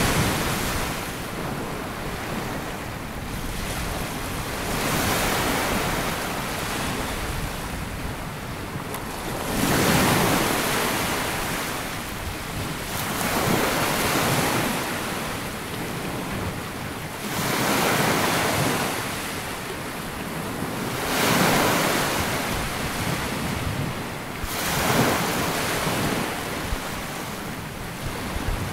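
Sea waves breaking and washing up a sandy beach, a surge every three to four seconds, with wind rumbling on the microphone.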